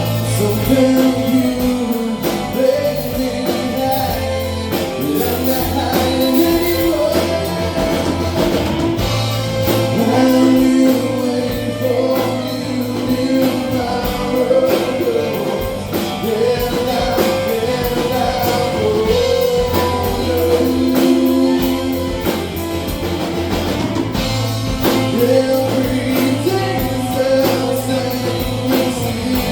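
Live rock band playing, with singing over electric guitar, bass and drum kit.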